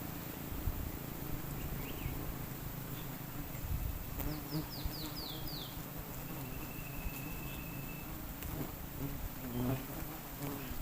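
Wild honeybees buzzing steadily around their nest, the swarm stirred up as the nest is cut. About four seconds in, a quick run of six falling whistled notes sounds over the buzzing.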